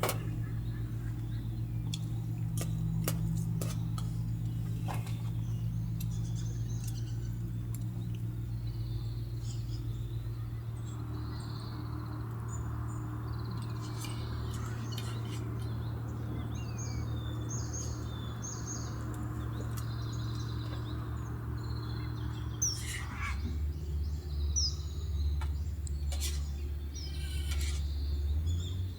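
Small birds chirping in short, scattered calls over a steady low hum, with a few sharp clicks.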